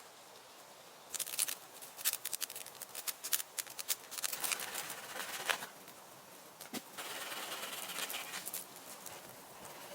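Irregular crackling and rustling, as of dry leaves and twigs being handled, starting about a second in. A steadier rustle follows near the end.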